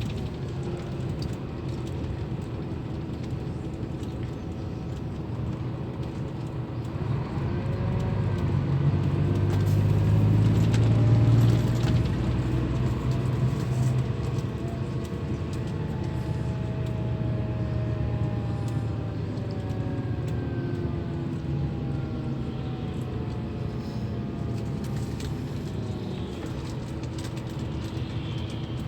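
Scania K340 bus engine running under way, its pitch gliding up and down with engine speed. It grows louder toward a peak about eleven seconds in, then eases off.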